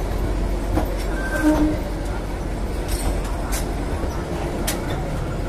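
Narrow-gauge passenger train coaches rolling on the rails, a steady rumble with scattered sharp clacks of the wheels over rail joints and points, and a short tone about a second and a half in.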